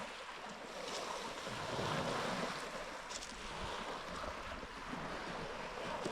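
Lake waves washing onto a beach: a steady rushing wash with no distinct strokes.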